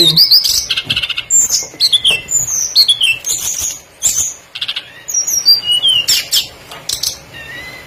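Songbird singing a fast, varied song of high whistled notes, many sliding downward, mixed with short chattery trills.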